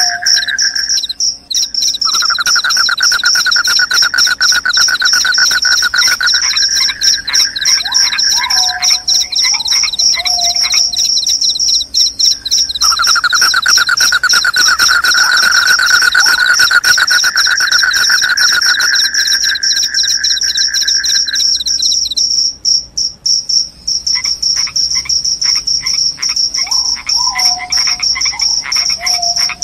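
Crickets chirping in continuous rapid, high-pitched trills, several at once. A lower trill starts and stops twice, and short falling calls come in now and then.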